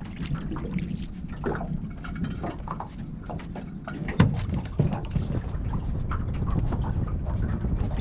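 Water splashing and scattered small knocks on a small boat, with one louder knock about four seconds in, after which a low rumble of wind on the microphone grows.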